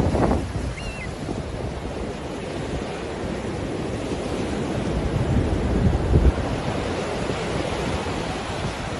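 Ocean surf washing in, with wind buffeting the microphone in low gusts; a brief faint high chirp about a second in.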